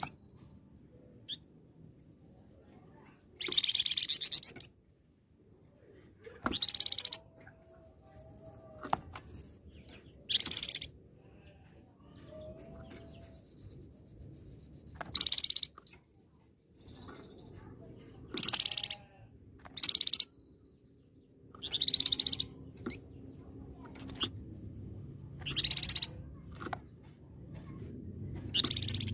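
A songbird sold and kept in Indonesia as a 'flamboyan' singing in loud, short high-pitched bursts, about a dozen of them, each under a second, with pauses of one to three seconds between.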